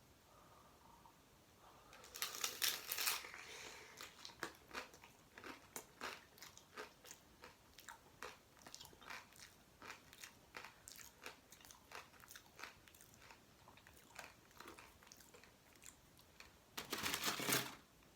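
A person biting into a crisp, pan-fried tortilla taco with a loud crunch about two seconds in, then chewing it with many small crunches, and taking another loud crunching bite near the end.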